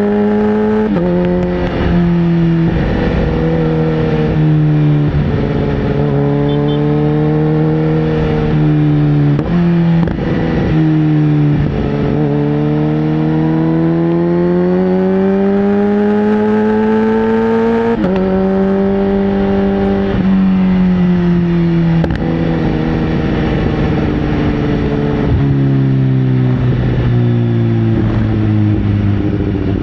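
Sportbike engine under way, its pitch climbing steadily through the revs and dropping sharply at each of several gear changes, with the longest climb in the middle before a sudden drop; the pitch sinks lower toward the end.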